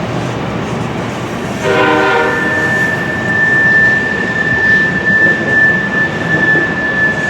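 A BNSF freight train running by with a steady rumble. About a second and a half in, the locomotive horn sounds a short blast, and a single high steady whine then carries on through the rest.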